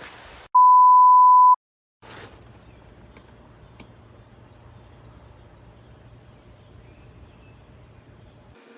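A single loud, steady electronic beep about a second long, with dead silence just before and after it, followed by a faint low hum.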